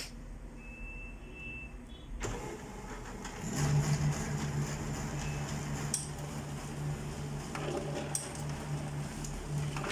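HP LaserJet P3005 laser printer starting a configuration-page print: a click about two seconds in, then its drive motors and gears start up and run with a steady, evenly pulsing low hum. No gear grinding is heard, the sign of a fixed gear problem.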